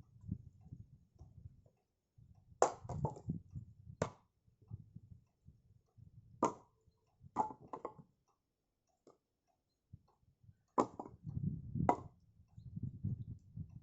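Firewood being chopped and handled: sharp wooden knocks at irregular intervals, about seven in all, with quieter low shuffling between them.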